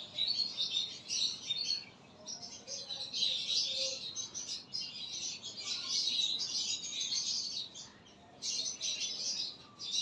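A flock of small birds chirping and chattering continuously in high-pitched calls, with a short lull about eight seconds in.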